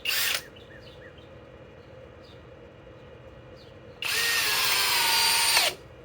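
Flex FX1231 compact hammer drill's motor runs in a short burst at the start, then about four seconds in drives a 4-inch screw for under two seconds, its whine sagging in pitch under load and falling away as it stops.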